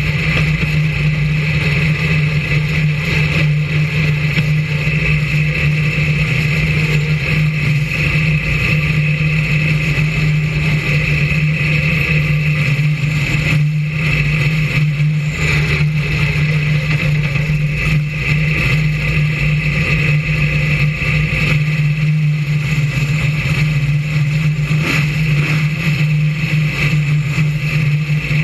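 BriscA F1 stock car's V8 engine running at steady, nearly unchanging revs, heard close up from a camera mounted on the car, with noise from the car over the shale track mixed in.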